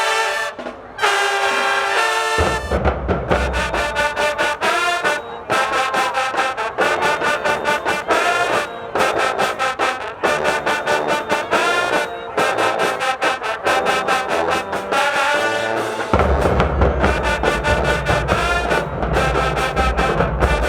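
High school marching band playing: the brass section opens with short held chords, then drums come in about two seconds in and the horns carry a fast rhythmic tune. The low end grows heavier near the end.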